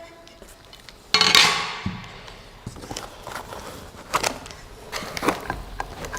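Unboxing handling noise: a loud rustling scrape of packaging about a second in, fading over about a second, followed by scattered light clicks and knocks as parts are handled.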